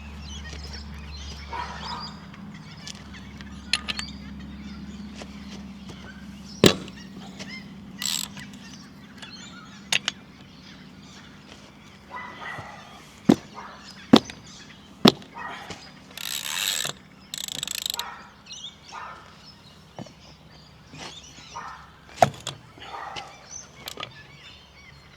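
Hand work on a metal fitting and its bolts: scattered sharp metal clicks and knocks as a part is fitted back on, with two short noisy scraping bursts about two-thirds of the way through.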